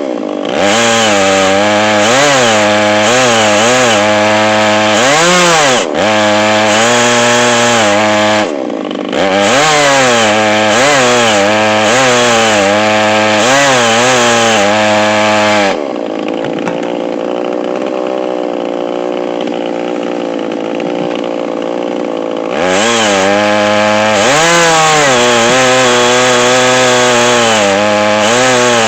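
Chainsaw on an Alaskan chainsaw mill cutting lengthwise through a log, the engine running at high revs with its pitch rising and falling as the load on the chain changes. About 16 seconds in it drops to a quieter, lower, steadier note for about seven seconds, then opens up again.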